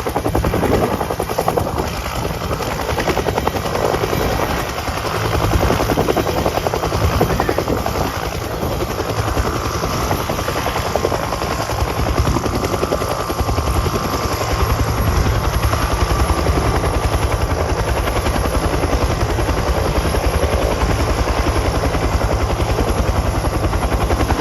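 Helicopter running close by: a fast, steady chop of the rotor blades with a faint steady whine above it.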